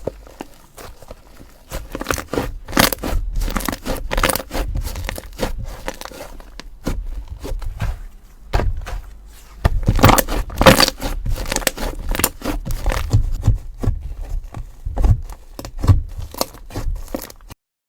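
Slime being squeezed and pressed by hand, giving a dense run of irregular crackles, pops and scrapes. It cuts off suddenly near the end.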